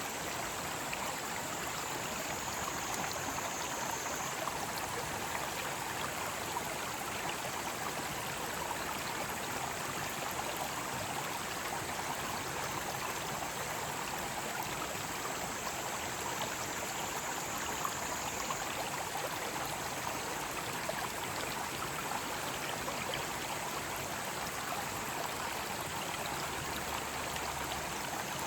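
Mountain stream flowing steadily, with cicadas singing in a steady high-pitched drone behind it that swells near the start and again in the middle.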